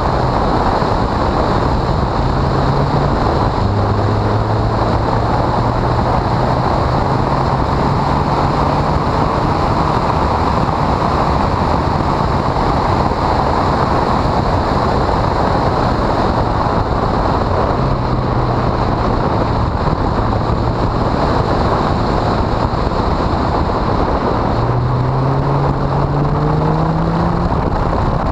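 Honda CRX engine running hard on track, mostly buried under a loud, steady rush of wind noise on the microphone. The engine note steps up and down with throttle and gear changes and climbs steadily in one long pull near the end.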